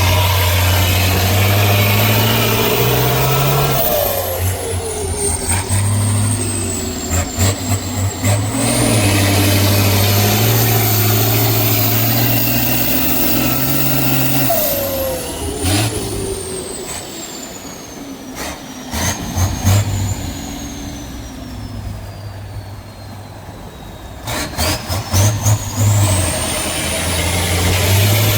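Heavy off-road trial truck's diesel engine running and revving under load, its note rising and falling, with a high whine gliding up and down and scattered knocks. The engine eases off for a quieter stretch past the middle, then builds again near the end.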